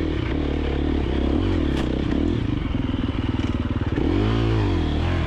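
KTM 350XC-F dirt bike's four-stroke single-cylinder engine running at low revs and being blipped up and down through slow, technical terrain, with a short quick rev about four seconds in. The bike clatters over the ground.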